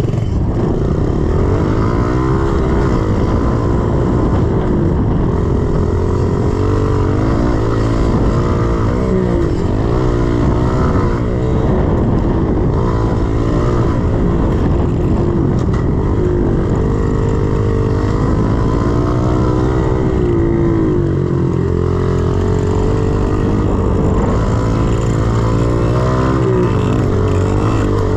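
110cc single-cylinder four-stroke pit bike engine revving up and falling back again and again as the bike is ridden around a dirt track, with throttle and gear changes every second or two.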